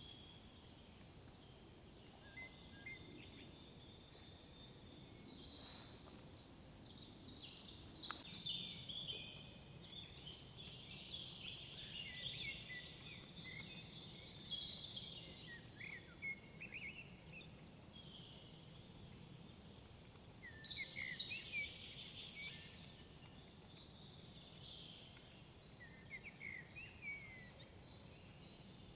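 Several songbirds singing in woodland, their overlapping chirps and phrases, with a high, rapid trill recurring several times.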